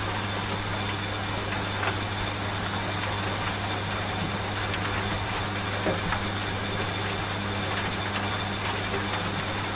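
A washing machine running with a steady motor hum, mixed with rain falling in an even patter with scattered drops.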